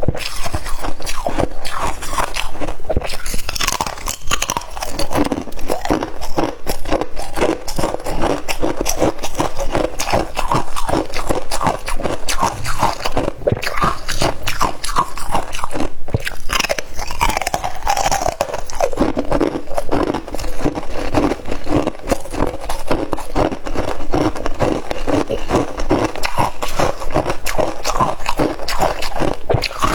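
Close-up crunching and chewing of ice, brittle crunches coming in quick succession throughout.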